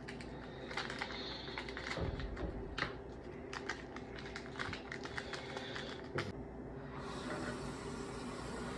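Light, irregular ticks and crinkles of instant-noodle seasoning packets being handled and emptied over the noodles. A steady hiss comes in near the end.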